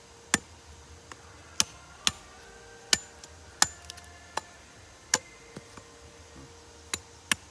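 Cutlass blade chopping a wooden forked stick: about nine sharp, irregular chops, roughly half a second to a second apart.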